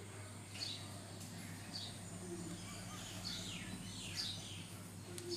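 Small birds chirping: short downward-sliding calls, repeated every second or so, over a low steady hum.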